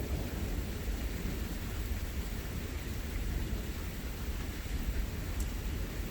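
Steady rain during a thunderstorm, with a low continuous rumble of thunder underneath.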